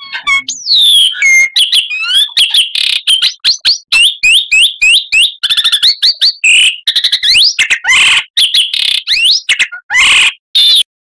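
Oriental magpie-robin (kacer) singing a fast, varied song of rising whistled notes and trills, broken by harsh rasping bursts. The song stops abruptly near the end.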